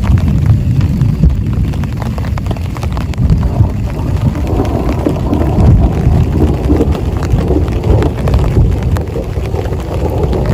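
Heavy rain falling: a dense, steady wash heavy in the low end, with many sharp drop hits.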